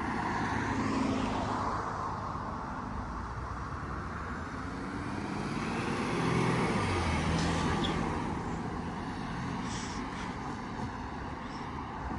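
Police cars driving away: engine and tyre noise, loudest as one car passes about six seconds in, its engine note falling as it goes.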